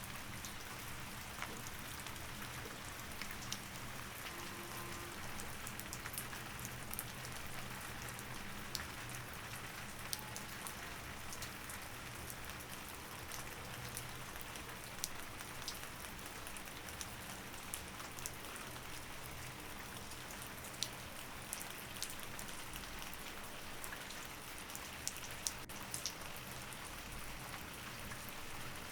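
Steady rain, with individual drops ticking sharply every second or so.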